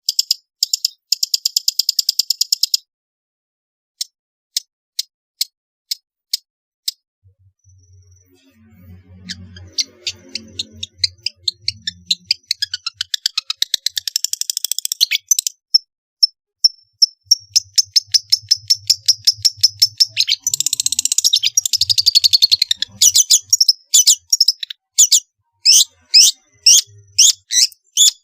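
Long-tailed shrike (pentet) singing a varied song of rapid sharp chirps and fast trills, breaking off briefly about three seconds in.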